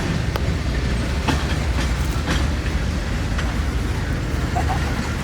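Railroad train rolling along the track: a steady low rumble with occasional sharp clicks of the wheels.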